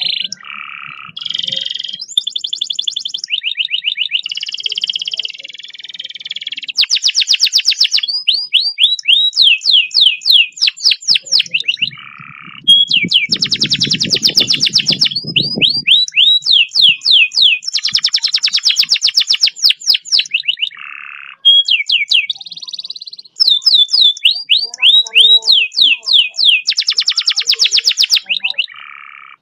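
Domestic canary singing long, fast rolls: phrases of rapidly repeated high notes and buzzy trills with short breaks between them. This is a master song of the kind used to coax reluctant canaries into singing. A low rumble sits under the song about halfway through.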